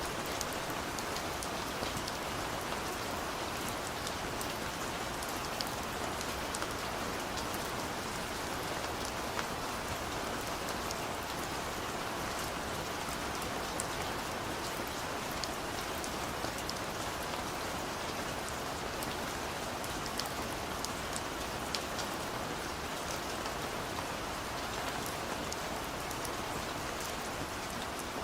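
Heavy rain falling steadily, a constant even hiss with scattered drop ticks.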